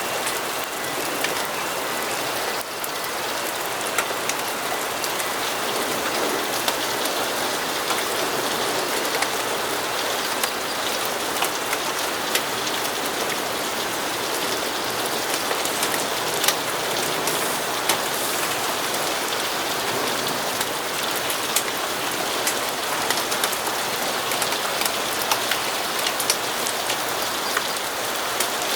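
Steady rainfall, an even hiss, with scattered sharp ticks of single drops striking close by.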